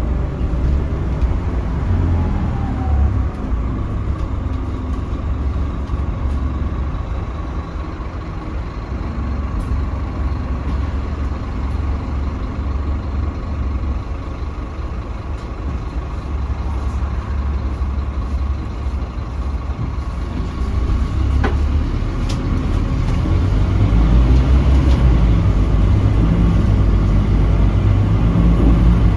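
Scania K310UB city bus heard from inside while under way: the diesel engine's low rumble with tyre and road noise and a steady whine, one sharp click about three-quarters of the way through, and the engine getting louder near the end.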